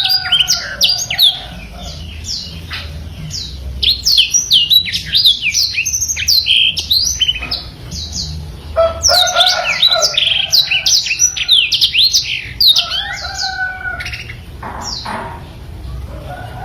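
Black-throated canary (blackthroat) singing a fast, unbroken run of quick high chirps and sliding notes, easing to a softer stretch about two seconds in and again around six seconds before picking up strongly again.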